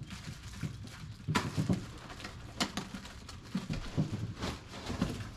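Cardboard box and packaging being handled and unpacked: rustling with several sharp clicks and knocks.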